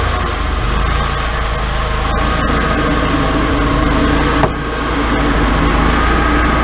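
Wood-Mizer LT40 sawmill engine running steadily, with two light clicks about two seconds in and a short knock about four and a half seconds in.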